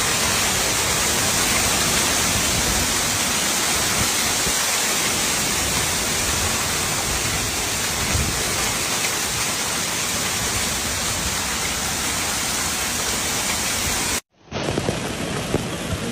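Heavy rain falling in a steady, dense hiss. Near the end it cuts to a different recording with sharper, separate impacts of rain on a surface.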